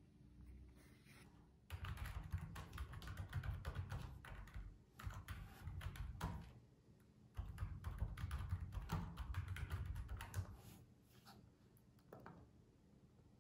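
Typing on a computer keyboard in fast runs of key clicks, with three bursts separated by short pauses.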